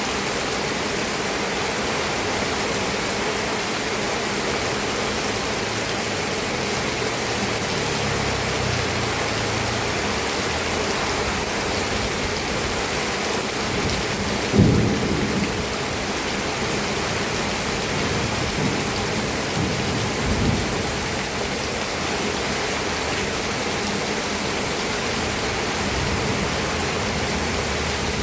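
Steady rain falling. About halfway through a sudden low boom fades out over a second or so, and a fainter low thump follows a few seconds later.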